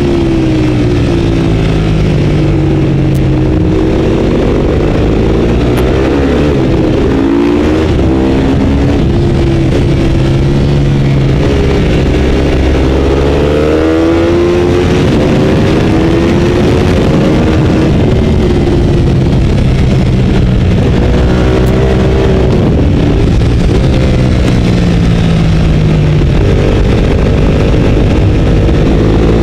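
Ducati 848's L-twin engine at racing speed, revving up and down repeatedly through the gears as the bike accelerates and slows for corners.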